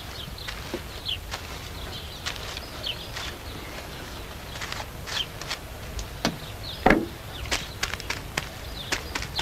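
Scattered knocks and taps from hand work, the loudest a dull thump about seven seconds in, with short repeated chirps of small birds.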